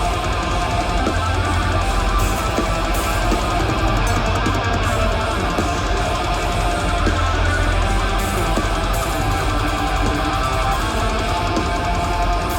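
Death metal band playing live: a loud, dense, unbroken wall of distorted electric guitars and bass.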